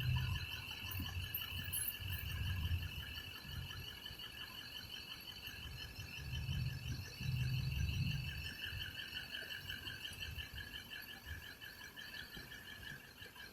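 Steady high trilling of insects, over low rumbling that swells and fades several times.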